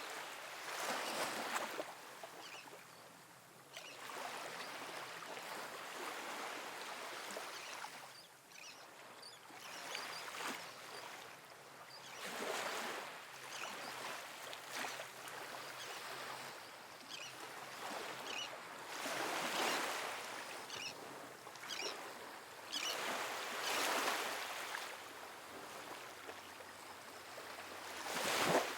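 Calm, soft ocean waves breaking on a sandy beach: a steady wash of surf that swells and fades every few seconds as each wave comes in.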